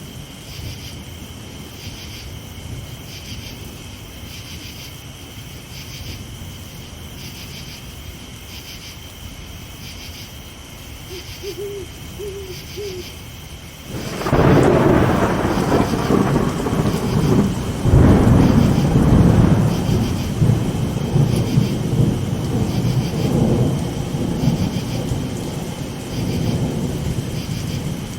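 Night crickets chirping in a steady pulsing rhythm over a low rumble, with an owl hooting three times shortly before the halfway point. Then a loud thunderclap breaks suddenly, a second crash follows about four seconds later, and the thunder rolls on with rain to the end.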